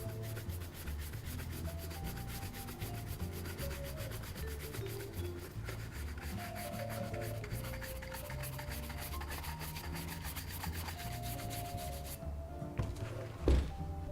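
Rapid rubbing strokes buffing a leather Paraboot boot, a quick even rhythm that stops near the end, followed by a single short thump.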